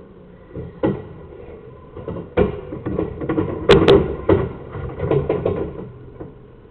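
Irregular knocks, taps and scrapes from handling, loudest with two sharp clicks a little past halfway.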